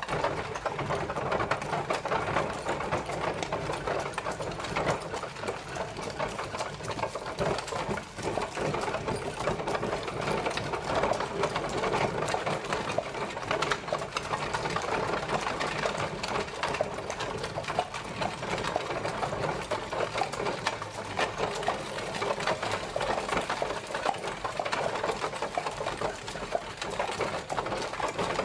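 Horse-drawn carriage traveling: a steady, rapid clatter and rattle of the wheels and carriage with the horse's hooves, even throughout.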